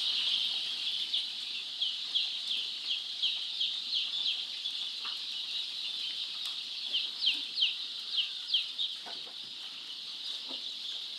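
A large flock of two-week-old chicks peeping continuously, a dense high chorus with many short, falling peeps standing out, a few louder ones about seven to eight and a half seconds in.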